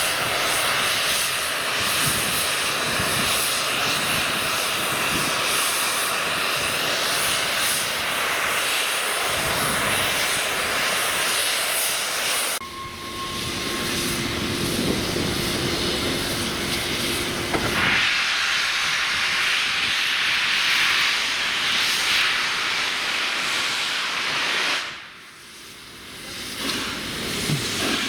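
Steam locomotive hissing steam, a loud continuous hiss that changes abruptly a few times from shot to shot.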